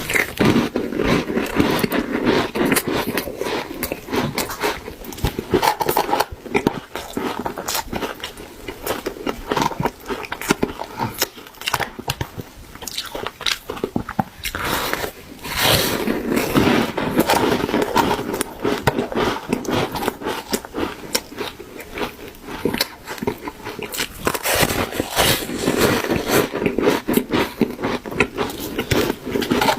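A person biting and chewing soft refrozen shaved ice close to the microphone: a dense, continuous soft crunching and crackling, with louder bites now and then.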